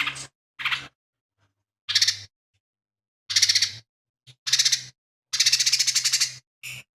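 Lesser green leafbird (cucak ijo mini) singing in short bursts of rapid trilled notes, eight phrases with silent gaps between them; the longest trill runs about a second near the end.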